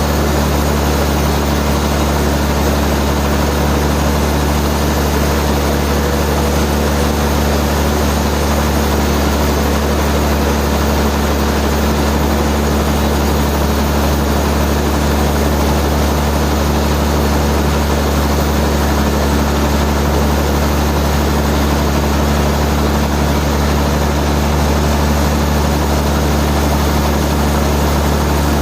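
Sawmill machinery running: a loud, steady mechanical drone with a low hum that does not change.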